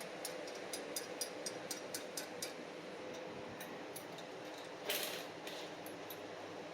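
Socket ratchet clicking quickly and evenly, about five clicks a second, for the first two and a half seconds as a 14mm exhaust clamp nut is run on. A few scattered clicks follow, with a short scraping rustle about five seconds in.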